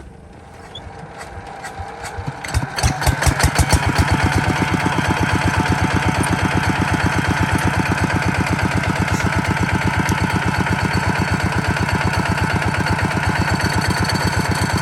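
Kubota RT140 DI single-cylinder diesel engine starting: a rising chug for about two and a half seconds, then it catches with loud separate firing strokes and settles into a steady, fast, even chug.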